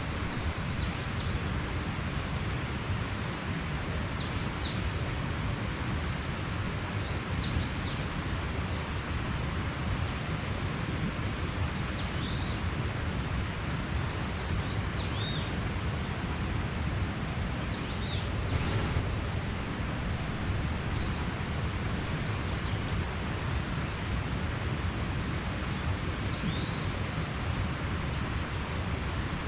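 Mountain stream rushing steadily, with a small bird repeating short high chirps every second or two.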